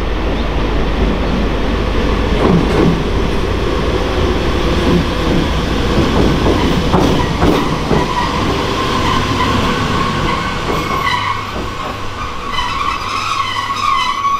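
A limited express train pulls into the platform, with a low rumble and wheels clanking over the rail joints. About two-thirds of the way through, a steady high squeal rises as it brakes to a stop.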